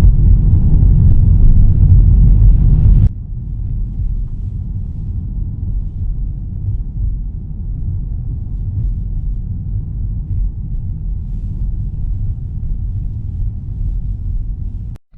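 Car driving along a road: a steady low rumble of tyres and engine. About three seconds in it drops suddenly to a quieter, even rumble, and it cuts out briefly near the end.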